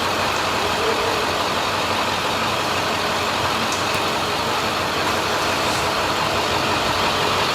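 Steady, even background noise, like a running machine, with faint distant voices.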